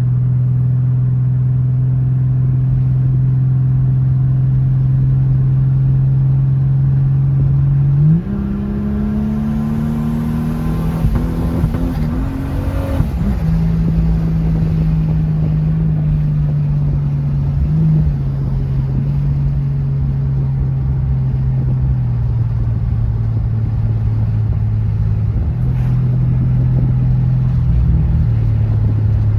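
Toyota Supra's engine pulling the car along a road. It holds a steady note at first, then about eight seconds in the revs jump and climb for a few seconds under acceleration. They drop at a gear change and ease down in small steps for the rest of the drive.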